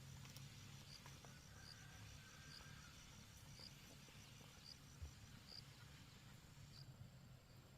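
Near silence: faint outdoor room tone with a low hum and a soft high chirp about once a second.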